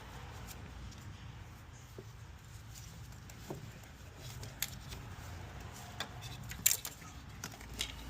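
Metal tools and parts clinking and tapping in scattered sharp clicks, busier in the second half with one louder clack near the end, over a steady low hum.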